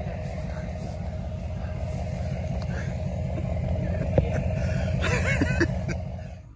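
A motor vehicle's engine running at idle with a steady low rumble, cutting off sharply near the end. A brief voice is heard about five seconds in.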